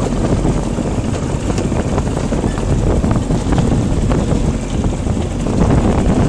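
Wind buffeting the microphone: a steady, loud low rumble that rises and falls.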